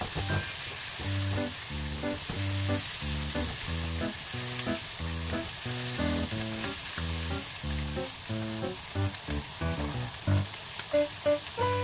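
Shrimp and minced garlic sizzling in hot oil in a wok, stirred with a silicone spatula, a steady frying hiss. Background music with plucked, rhythmic notes plays over it.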